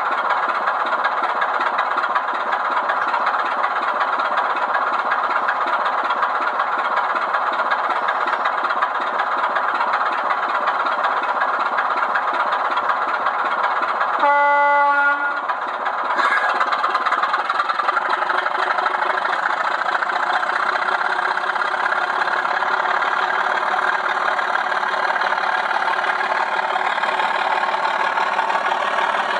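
Diesel locomotive engine sound from a DCC sound decoder, running steadily, with the horn sounded once for about a second and a half around the middle.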